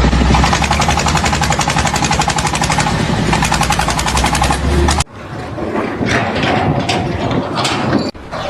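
Jackhammer hammering in a fast, even rhythm with a deep rumble underneath, cutting off abruptly about five seconds in. After the cut come a few scattered knocks over a rough background.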